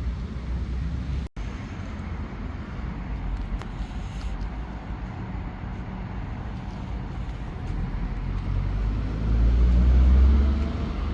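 Steady outdoor rumble and noise, swelling louder near the end, with a brief dropout about a second in.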